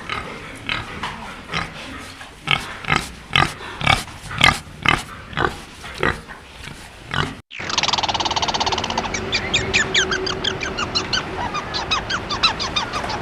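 Animal calls from two clips: first a run of short grunting calls about twice a second, then, after a sudden cut about seven seconds in, a dense chatter of many quick, high-pitched calls from several animals.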